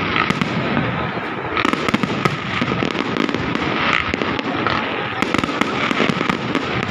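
A fireworks display going off continuously: dense crackling and many rapid sharp pops and bangs overlapping throughout, with no pause.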